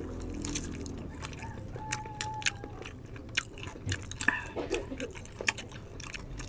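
Close-up eating sounds of bagnet, crispy deep-fried pork belly, being bitten and chewed: scattered sharp crackles of the crunchy skin over wet chewing.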